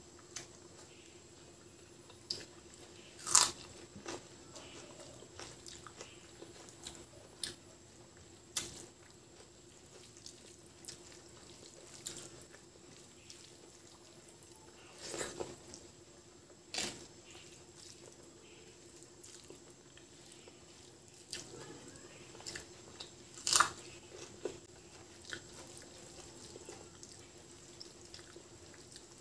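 Close-up eating sounds of a person chewing hand-mixed rice with fried potato: soft wet chewing broken by several sharp, loud crunchy bites or lip smacks, about four of them standing out. A faint steady hum runs underneath.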